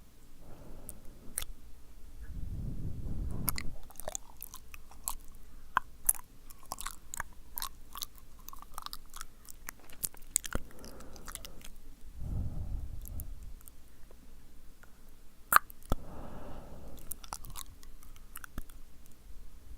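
ASMR mouth sounds right at the microphone: wet, sticky tongue and lip clicks coming in quick, irregular runs, with a few soft breathy puffs in between.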